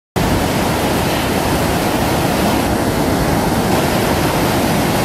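Steady, loud rush of fast-flowing water, cutting in abruptly just after the start.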